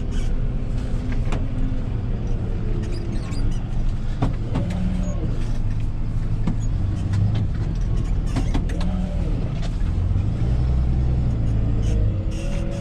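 Rollback tow truck's engine running as the truck pulls out, its pitch rising and falling several times, with scattered clicks and knocks over it.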